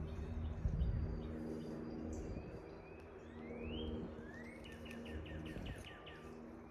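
Songbirds calling: a single rising note partway through, then a quick run of about eight repeated high notes. Under them runs a steady low hum, with a muffled low thump about a second in.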